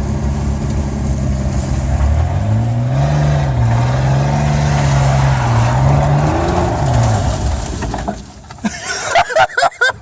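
Chevy S10 pickup's engine revving hard as it slides sideways on a welded differential: the pitch climbs about two seconds in, holds, and falls away again after about six seconds. A burst of short, sliding high squeals follows near the end.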